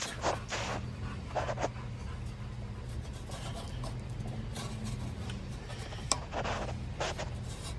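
Hands tugging and fiddling at the spark plug boot of a Briggs & Stratton small engine: short rubbing and scraping sounds and one sharp click about six seconds in, over a steady low hum.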